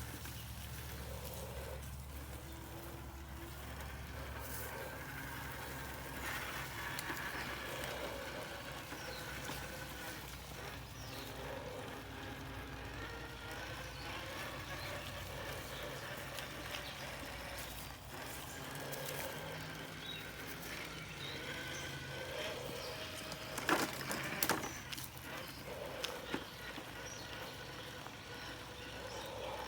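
Traxxas TRX-4 RC crawler's electric motor and gearbox whining, the pitch rising and falling with the throttle as it crawls along the trail. About three-quarters of the way through there is a brief burst of knocks and rattles.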